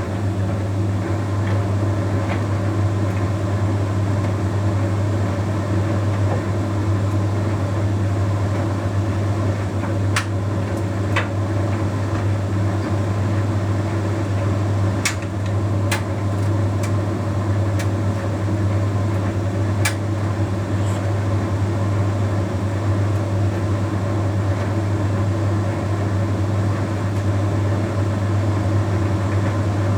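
Bosch Series 6 heat pump tumble dryer running steadily through a shirts load, a constant deep hum from its compressor and fan with the drum turning. A few light clicks sound between about ten and twenty seconds in as the load tumbles.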